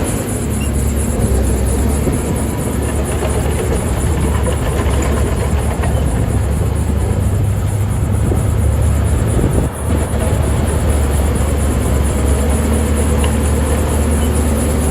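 Heavy diesel earth-moving machinery running with a steady low engine drone, which dips briefly about two-thirds of the way through.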